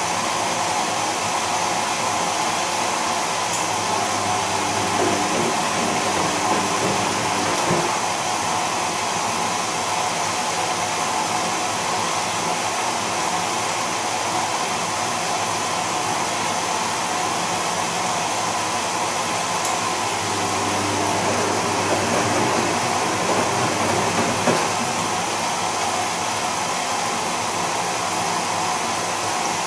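Bosch Serie 2 VarioPerfect washing machine running on its Silk programme: a steady motor whirr with a constant whine, swelling slightly twice.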